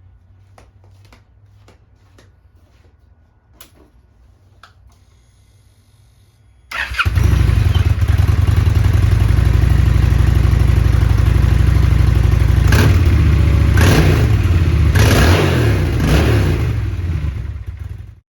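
A few faint clicks, then a Honda Shadow Phantom's 745 cc V-twin starts about seven seconds in and settles into a loud, lumpy idle. Near the end it is revved with several short throttle blips, then the sound cuts off suddenly.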